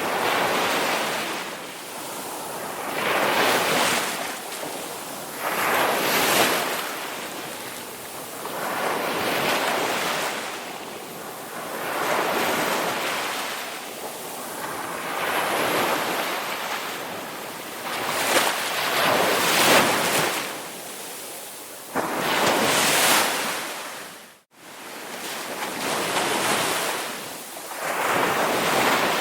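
Ocean waves breaking and washing ashore, a surge of surf about every three seconds. The sound drops out for an instant about two-thirds of the way through.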